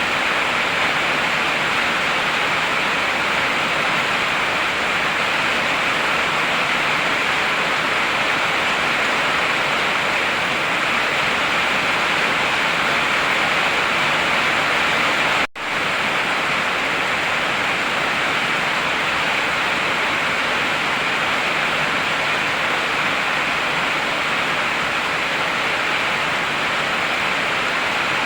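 Heavy rain falling steadily as an even, dense hiss. The sound cuts out for a split second about halfway through, then resumes unchanged.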